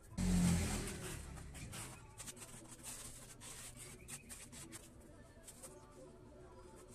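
A sudden heavy thump with a low boom about a quarter-second in, fading over about a second, followed by scattered scraping and light clicks of something being handled.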